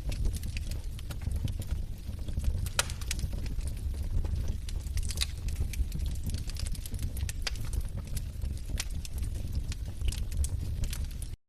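Log fire crackling: irregular sharp snaps and pops over a steady low rumble of the flames. The sound drops out completely for a moment near the end.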